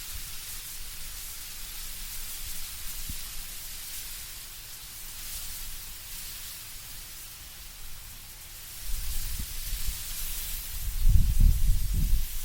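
Wind blowing through autumn trees, leaves rustling in a soft hiss that swells and fades. About three-quarters of the way in, low rumbling gusts come in and grow louder.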